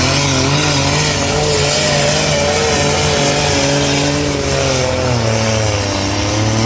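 Pulling tractor's engine running at high revs under load during a pull, its pitch wavering and dipping slightly about five seconds in.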